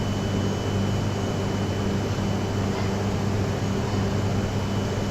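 Steady hum of a Shinkansen train and its equipment: an even noise with a constant low drone and a faint high steady whine.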